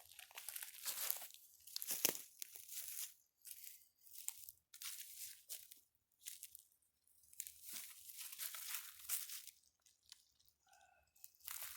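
Faint rustling and crunching in irregular bursts as a person lies down and shifts their body on the ground, with short quiet gaps between the movements.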